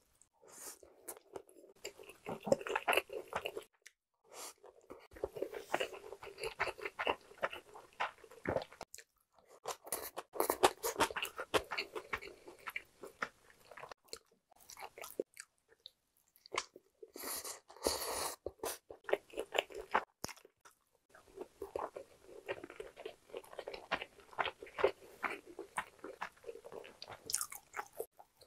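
A person chewing mouthfuls of pork bulgogi and glazed fried chicken close to the microphone, with quick runs of sharp mouth clicks in several stretches broken by short pauses.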